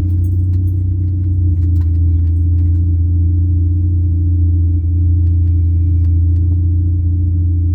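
Supercharged 2004 Mini Cooper S 1.6-litre four-cylinder engine running at a steady speed: a constant deep drone with a faint steady high whine above it.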